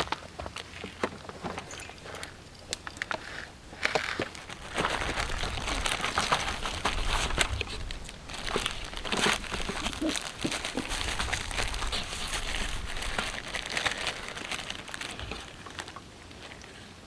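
Continuous crinkling and crackling, scattered clicks at first, then dense from about four seconds in until near the end, over a low rumble.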